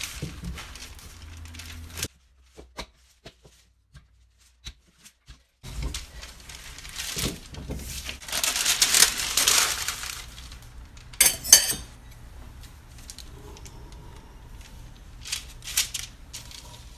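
Parchment paper rustling and crinkling as dough is handled on it, loudest about nine seconds in, with a few sharp clicks and clinks of kitchen utensils shortly after. Near silence for about three seconds after the first two seconds.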